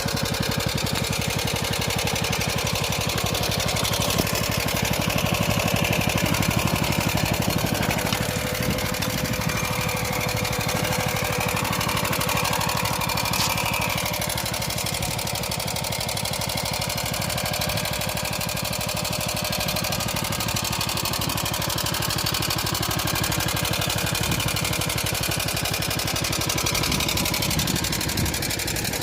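Motor Sich walk-behind tractor engine running steadily under load as the machine digs the soil on its own.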